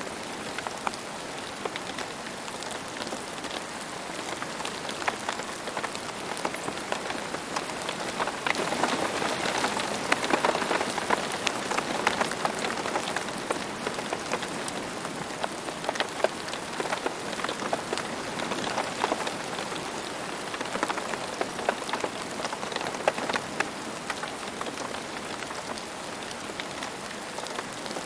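Steady rain falling on a hard surface, with many distinct drop splats over an even hiss. It grows a little heavier about a third of the way through, then eases again.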